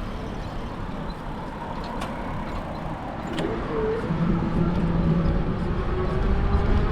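Road traffic passing a moving bicycle, with wind rumbling on the microphone. A vehicle's engine grows louder from about four seconds in.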